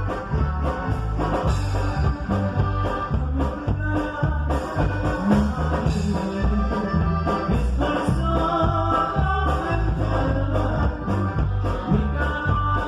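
Conjunto band playing a song, with a steady bass and drum beat under a melodic lead line.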